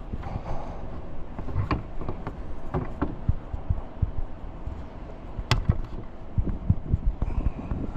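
Irregular clicks and knocks of a long-reach lockout tool working against a truck's door and window, with low thumps in between and one sharp click about five and a half seconds in.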